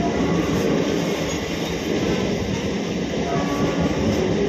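Moving MMTS suburban electric train, a steady rumble of wheels on the rails and carriage noise, heard at an open carriage door.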